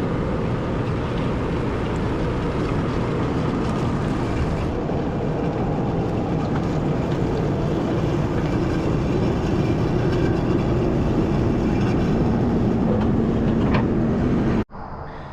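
Heavy vehicle engine running steadily, a dense low rumble that grows a little louder and then cuts off abruptly near the end.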